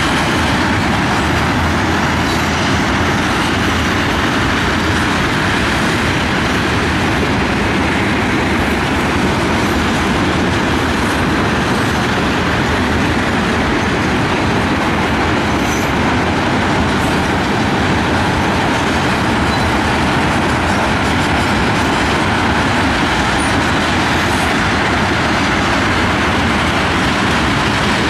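A train's cars rolling past on the rails: a loud, steady rumble and rail noise with no break and no horn.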